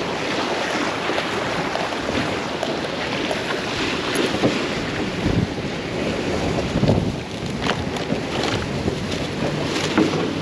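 Strong wind blowing across the microphone: a steady rush with gusts, and a few brief knocks or bumps.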